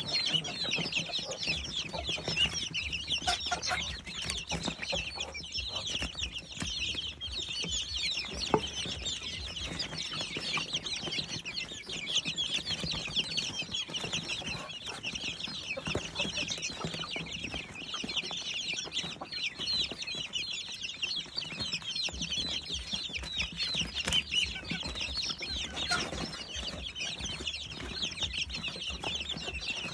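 A flock of young chicks peeping continuously, many short high chirps overlapping without a break.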